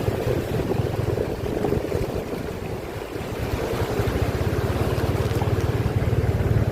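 Steady low rumble and noisy rush of wind and floodwater in a typhoon, with wind buffeting the microphone.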